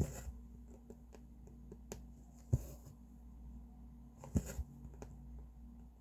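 Hand cross-stitching: a needle pushed through the fabric and the thread drawn after it, a short swish with a light thump, three times about two seconds apart, with small taps and clicks between.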